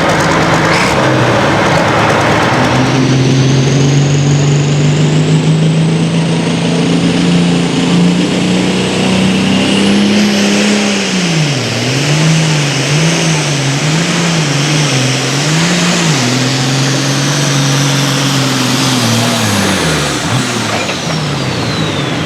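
Super Farm class turbocharged diesel pulling tractor running hard under load, engine pitch held high with a high turbo whine over it. Midway the engine speed swings up and down about five times, then holds again, and near the end the engine and turbo whine wind down as the throttle comes off.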